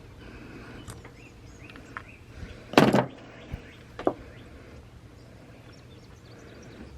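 A few knocks and clicks of handling. The loudest comes about three seconds in and another about a second later, over a low steady background.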